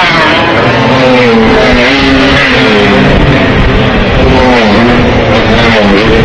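Classic two-stroke racing motorcycles running hard past the track side, their engine notes rising and dropping in pitch again and again.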